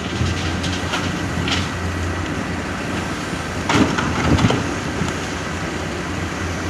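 Komatsu excavator's diesel engine running steadily, with a few sharp knocks, loudest in a cluster about four seconds in.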